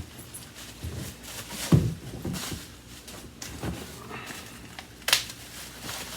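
Handling noise from vacuum cleaner parts being moved and set down: scattered knocks and rustles, with a heavier thump about two seconds in and a sharp click about five seconds in.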